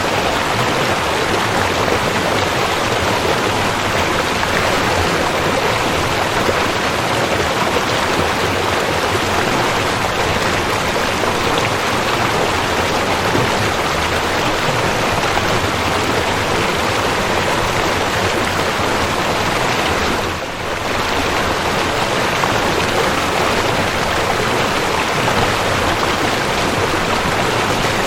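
Waterfall: a steady, dense rush of falling water with no breaks, dipping briefly in level about twenty seconds in.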